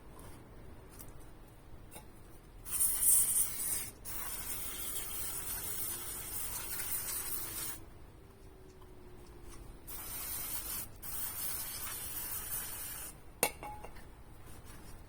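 Aerosol spray can hissing in two long sprays, the first about five seconds and the second about three. A single sharp click follows near the end.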